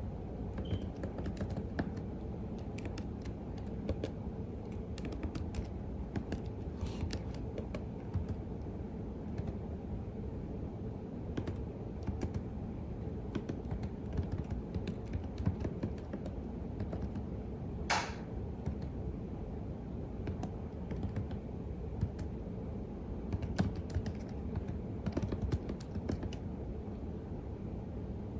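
Typing on a computer keyboard: keystrokes come in bursts near the start and again near the end, with a sparser stretch of scattered strokes in between and one sharper click partway through. A steady low hum runs underneath.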